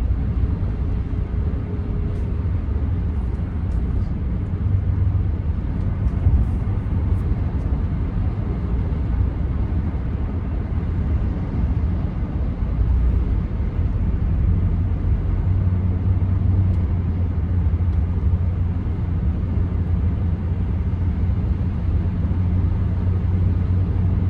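Steady low rumble of a 2014 Ram 1500's 5.7 Hemi V8 and its tyres on the road, heard from inside the cab while driving.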